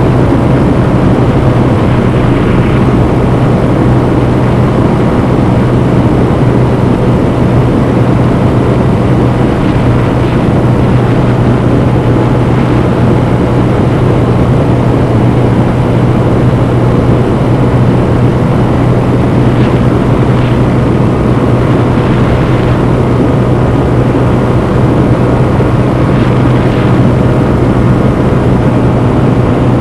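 Honda CB125F's single-cylinder four-stroke engine running under way, heard from onboard the moving motorcycle, holding a steady pitch as the bike cruises at constant speed.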